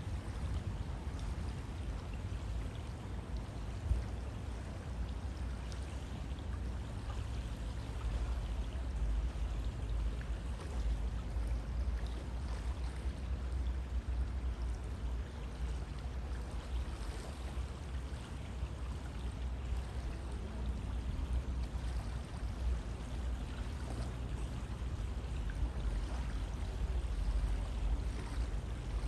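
River water flowing steadily: a continuous, even rushing, deepest and strongest in the low rumble.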